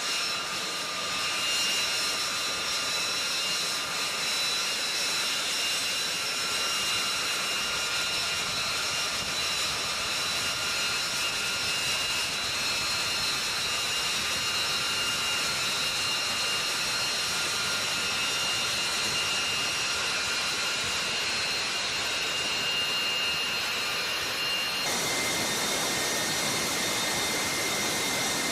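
F-35B Lightning II's F135 turbofan jet engine running with a steady rush and a high whine. The whine's pitch shifts suddenly about 25 seconds in.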